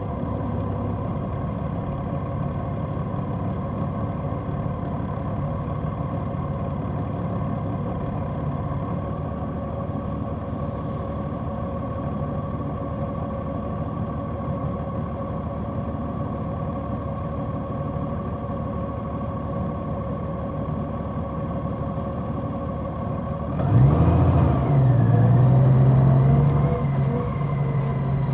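A large motorcycle's engine running steadily at cruising speed. About four-fifths of the way through, the engine note rises and gets louder as the bike accelerates, then holds at the higher pitch.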